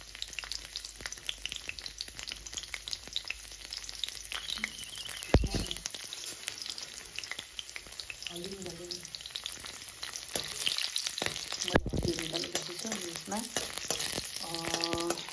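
Whole garlic cloves sizzling and crackling in a little hot oil in a steel wok, stirred with a metal ladle. There are two dull thumps, one about five seconds in and one about twelve seconds in.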